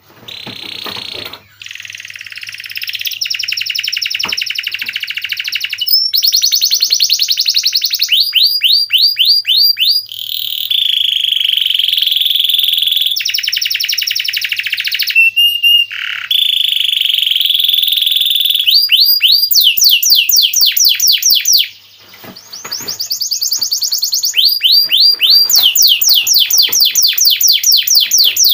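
Domestic canary singing a long, loud song of rolling trills and fast runs of repeated sweeping notes, switching to a new trill every few seconds, with a brief pause near the end.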